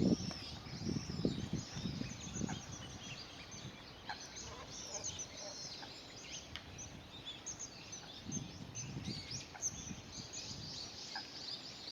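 Low, guttural croaking calls of great cormorants at their nests, in short bouts at the start and again near the end, over many high, thin bird chirps.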